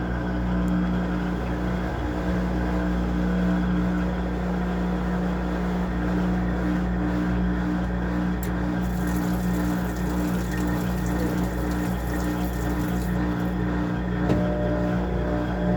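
Washing machine running steadily through its wash-and-spin programme, its motor giving a constant even hum. A thin high hiss joins in about nine seconds in and stops about four seconds later.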